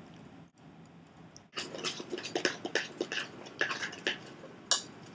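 Spoon stirring and beating cornbread batter in a bowl: a run of quick scraping clicks, about three or four a second, starting about a second and a half in and ending with a sharper knock near the end.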